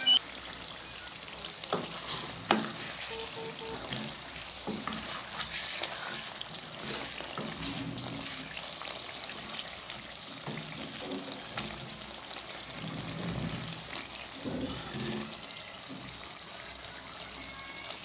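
Chicken karahi sizzling and frying in a karahi pan as a spatula stirs it, with scattered clicks of the spatula against the pan.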